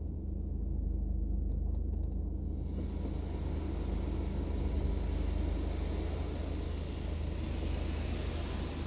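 Water spray from an Istobal Flex5 automatic car wash hitting the car, heard from inside the cabin over a steady low rumble. The hiss of the spray starts about two and a half seconds in and builds towards the end.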